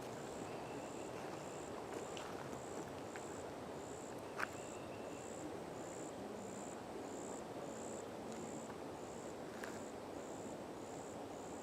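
An insect chirping in a steady, high-pitched, evenly repeating pulse, about three chirps every two seconds, over a faint outdoor hush. A single sharp click about four seconds in.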